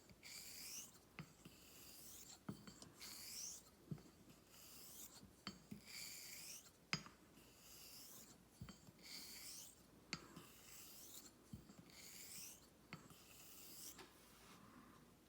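Straight razor being drawn in honing strokes across a wet whetstone: a faint scraping swish about every second and a half, ten strokes in all, with a light click between strokes as the blade is flipped over on its spine.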